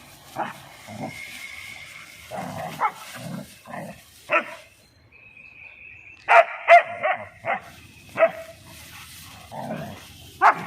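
Dogs at play, giving short barks and yips, with a quick run of loud barks about six seconds in.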